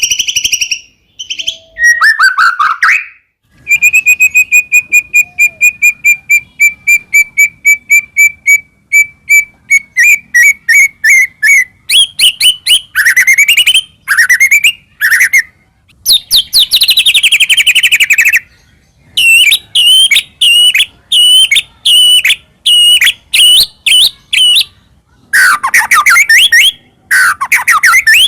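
White-rumped shama (murai batu) in full song: a long run of rapid repeated whistled notes, about four or five a second, then sweeping whistles and fast chattering phrases.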